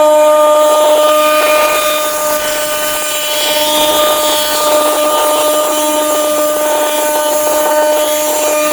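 A power tool motor running at a constant speed, a steady high hum with overtones.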